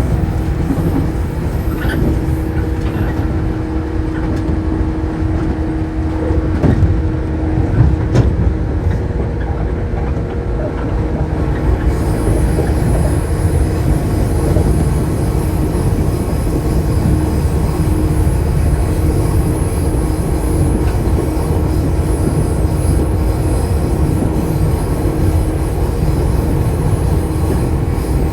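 Shinano Railway 115 series electric train running, heard from inside the car: a steady rumble of bogies and wheels under a steady traction-motor hum. A few sharp clicks over rail joints come in the first eight seconds, and a faint high whine joins at about twelve seconds.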